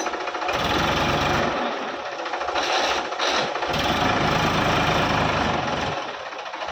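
Sonalika DI 750 RX tractor's diesel engine running, with its sound swelling twice, about half a second in and again near the middle, before settling back.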